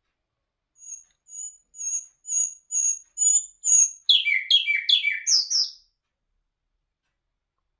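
Songbird known as bulbul hazar dastan singing one song phrase: a run of about seven high notes, each louder than the last, then a quick series of falling notes that ends about six seconds in.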